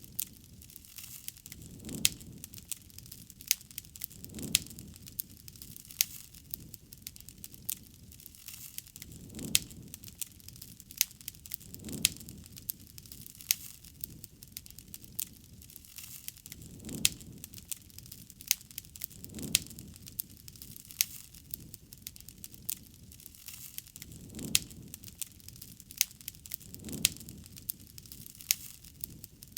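Wood fire crackling, with frequent sharp pops and snaps. A soft low rush of flame swells up now and then, in pairs a few seconds apart.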